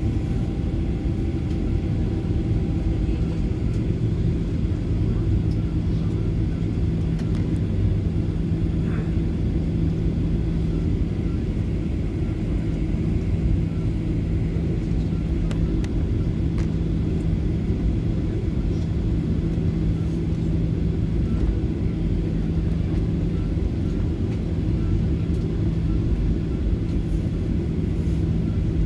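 Steady low rumble of a running vehicle engine with a constant low hum, unchanging throughout.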